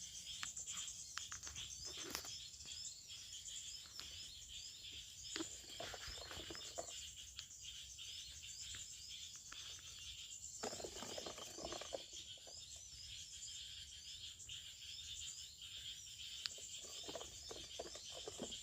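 Forest ambience: a steady high-pitched insect drone with a run of short repeated chirps. Occasional rustles and clicks come through here and there.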